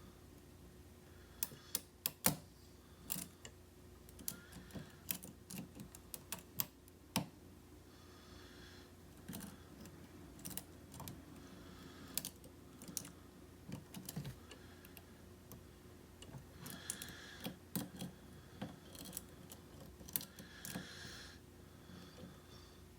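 Lock pick and tension wrench working the pin stack of a challenge lock: irregular light metallic clicks and ticks, with a few short scraping passes, as pins are lifted and set.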